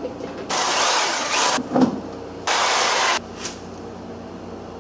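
Two short blasts of pressurized gas hissing from a nozzle, the first about a second long and the second shorter, each starting and stopping abruptly. A brief knock falls between them.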